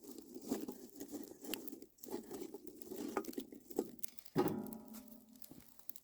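Handling noise: rustling and small clicks and clatter, with a sharp metallic strike about four and a half seconds in that rings briefly and dies away.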